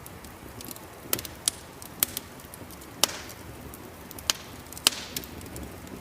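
Wood fire crackling: sharp pops roughly once a second, two of them followed by a short hiss, over a low steady rumble.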